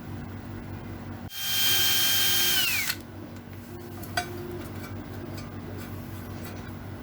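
An electric drill's motor spins up and runs at a steady high whine for about a second and a half, then winds down as it is switched off. A single short click follows a little later.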